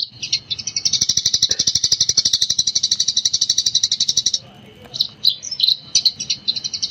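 Eurasian tree sparrow chattering in a fast, continuous run of high chirps, the rapid 'gecor' song. About four seconds in the run breaks off into a few separate chirps, then the rapid run starts again near the end.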